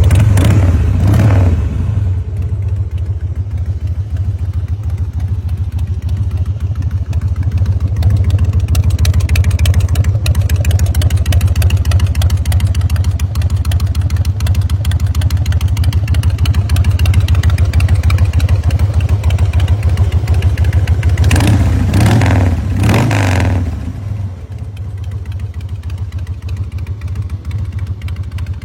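2002 Harley-Davidson Fat Boy's carbureted Twin Cam V-twin with Vance & Hines exhaust, idling with a steady low rumble. It is blipped twice about 22 seconds in, then idles on more quietly.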